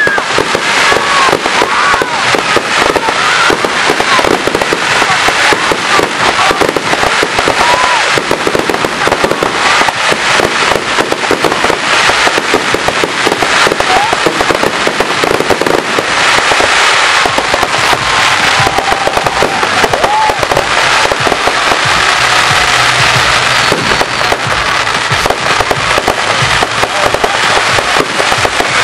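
Fireworks going off in a dense, continuous barrage of cracks and bangs, with louder clusters of bursts every few seconds.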